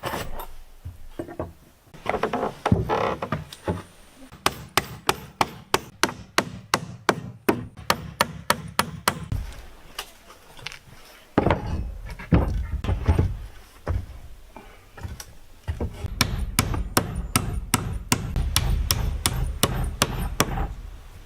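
Hammer striking wood in two runs of quick, even blows, about three or four a second, with irregular knocks and wood being handled in between.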